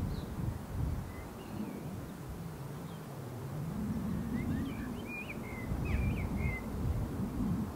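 Small birds chirping, a cluster of short quick calls in the middle, over a steady low outdoor rumble.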